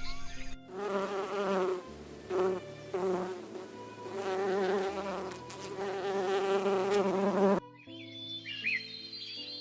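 A flying insect buzzing in several stretches with short gaps between them, the hum wavering slightly in pitch. Near the end it stops abruptly and gives way to music with chirping bird calls.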